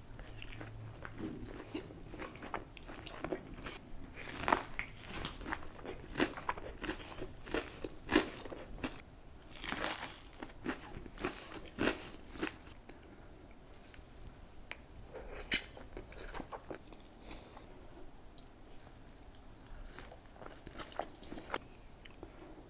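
Close-miked eating: crunchy bites into fried food, then chewing. The crunches come thickest in the first half and give way to softer chewing.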